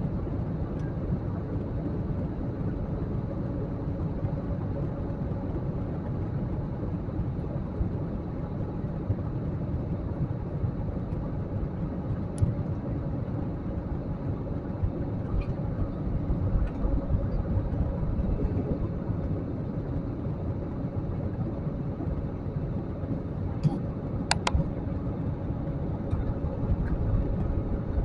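Steady cabin drone of an airliner in flight: even, low rushing engine and air noise with a faint hum, and a few light clicks about halfway and near the end.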